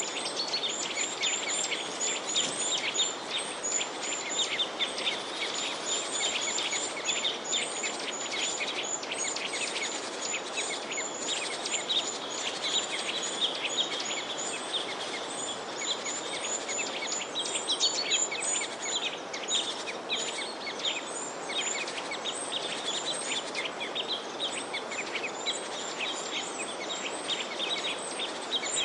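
Many small birds chirping together: a dense, continuous run of quick, high, overlapping chirps over a steady background hiss.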